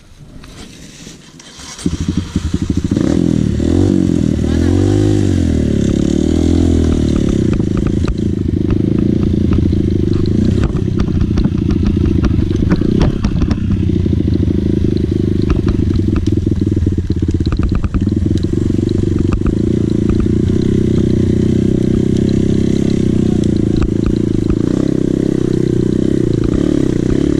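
Dirt bike engine running hard and loud from about two seconds in, its pitch rising and falling as it revs, with scattered rattles and knocks over the top.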